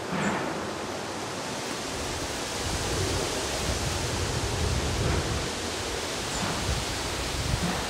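Storm ambience: a steady, even rushing noise with low rumbles swelling up a few times.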